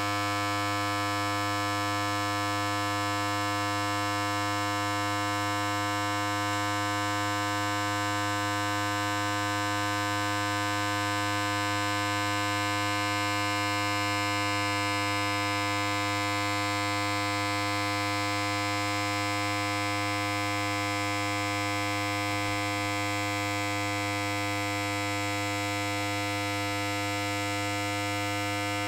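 Electric hair clipper running continuously with a steady, even buzz.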